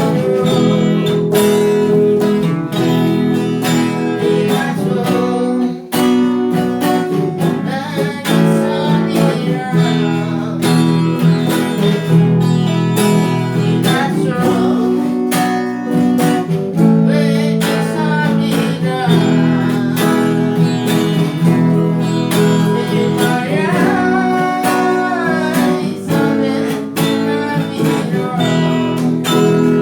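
A song with acoustic guitar strummed in chords and a woman singing over it.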